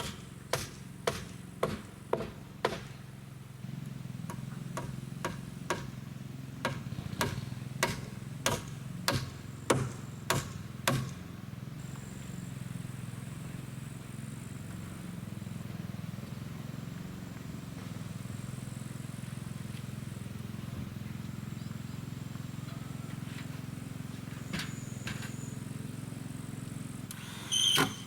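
Hammer blows, about two a second, in a steady rhythm that stops about eleven seconds in. A brief louder clatter follows near the end.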